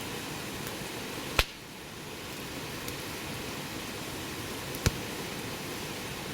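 Wood fire burning with a steady hiss and light crackle, and two sharp pops, one about a second and a half in and one near five seconds.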